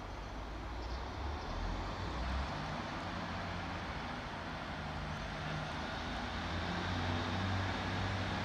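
Diesel train approaching along the station line, a steady low engine drone over rumble and outdoor noise, growing slowly louder.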